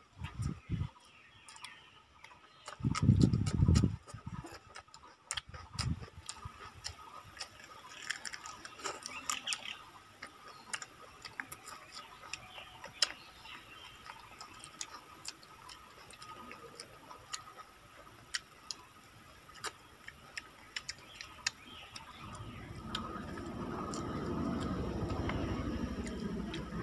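Close-up eating sounds: chewing and wet mouth clicks, scattered irregularly, as rice and chicken are eaten by hand. A heavy low thump about three seconds in is the loudest event, and a low rumble rises near the end.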